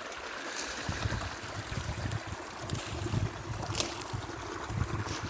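Wind buffeting the microphone in uneven low gusts over a steady outdoor hiss, with a few faint ticks.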